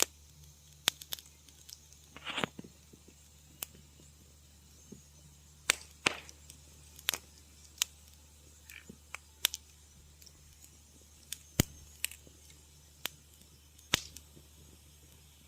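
Wood fire crackling in a fireplace: irregular sharp pops and snaps, one or two a second, with a short run of crackling about two and a half seconds in and again around six seconds, over a faint steady low hum.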